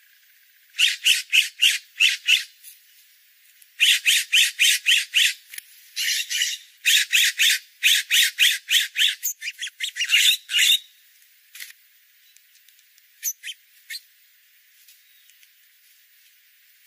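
A bird calling in rapid runs of short, sharp notes, about four or five a second, in three bursts that stop about eleven seconds in. A few faint ticks follow.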